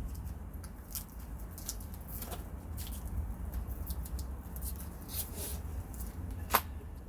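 Small clicks and taps of metal hardware being handled by hand, a split ring and clevis pin being fitted during assembly, with one sharper click about six and a half seconds in, over a low steady rumble.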